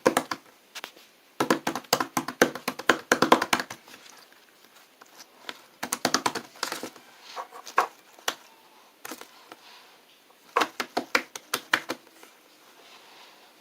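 Irregular runs of quick taps and clicks, several a second, in bursts with short pauses between them, from hands handling small hard objects.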